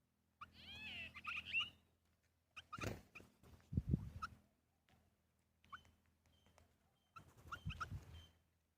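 Small birds chirping in short high notes, with a quick run of gliding calls about a second in. Dull low thumps come about three, four and eight seconds in.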